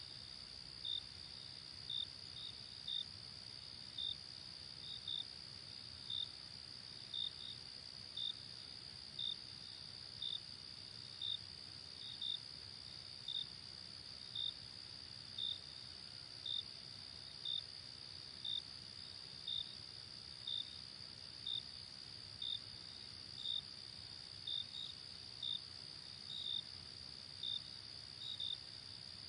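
Crickets at night: a continuous high trill with a separate, louder chirp repeating about once a second, now and then doubled.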